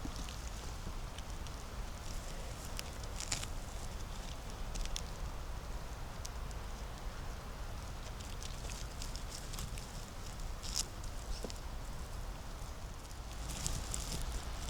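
Footsteps on the forest floor, dry leaves and small twigs crackling underfoot in scattered bursts, with a cluster of crackles near the end, over a steady low rumble.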